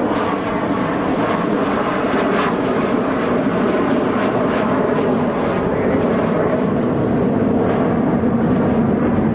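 Jet engine noise from an F-35B Lightning II, loud and steady.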